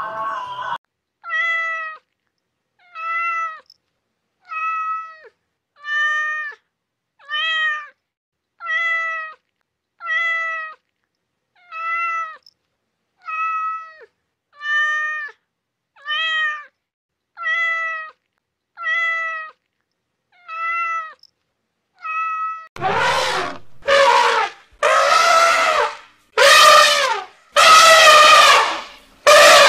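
A kitten meowing again and again: about fifteen short, high meows, one every second and a half or so. About 23 seconds in, an elephant takes over with a run of much louder trumpeting calls.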